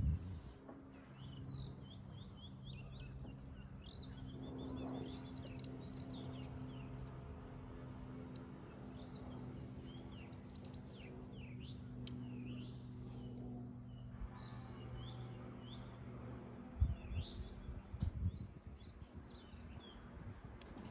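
Small birds chirping and calling over and over against a steady low hum. A few sharp pops from the wood fire in the rusted can cut through, with some low thumps near the end.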